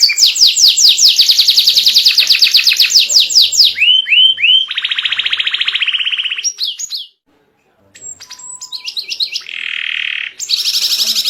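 Domestic canary singing a long, loud song of rapid trills: fast runs of repeated notes, some sweeping and some buzzy, changing from one trill type to the next. The song breaks off completely for under a second a little after seven seconds in, then picks up again.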